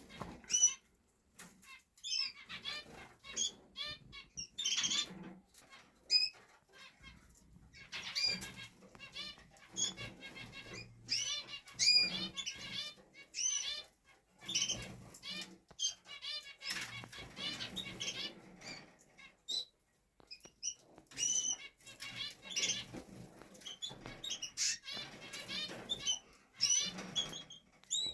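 Canaries in their cages chirping and warbling in quick, repeated phrases, with wings fluttering as they hop and flit about.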